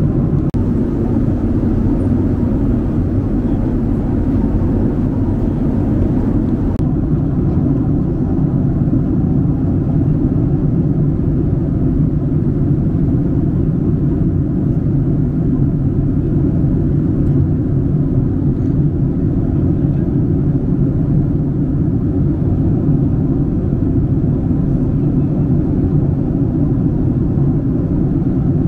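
Steady cabin noise of a Boeing 767-300 airliner in flight: an even low rumble of engines and airflow around the fuselage, with a faint click or two.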